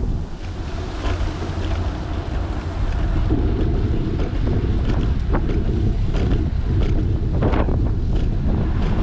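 Wind buffeting a GoPro's microphone on a moving fixed-gear bicycle, a steady low rumble, lighter for the first couple of seconds, with scattered light clicks and knocks.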